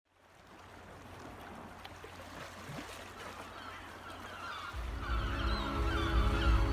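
Birds calling over a soft noisy ambience that fades in and gradually swells; about two-thirds of the way through, music with low sustained tones comes in beneath the calls.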